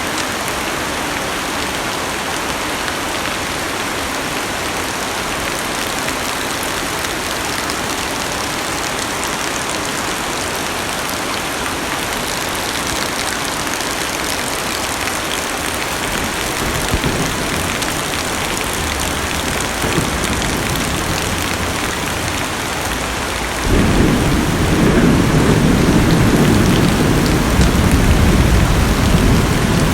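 Heavy rain drumming steadily on a car's roof and glass, heard from inside the car. Rolling thunder comes in with a sudden deep rumble a little over three quarters of the way through and carries on to the end.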